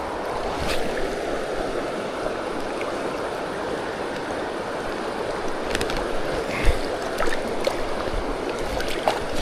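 Fast-flowing river water rushing steadily, with a few light clicks and a dull thump about two-thirds of the way through.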